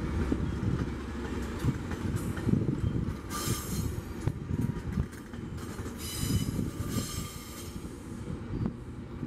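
A train rolling slowly on the rails with a steady low rumble and a few knocks, and two bursts of high-pitched wheel squeal, one about a third of the way in and one about two-thirds of the way in.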